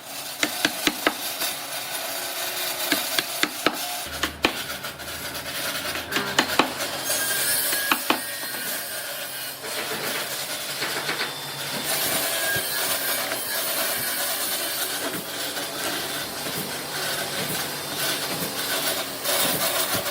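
Hand work on wooden boards: a run of sharp taps and knocks for the first several seconds, then steady rubbing or scraping strokes against the wood.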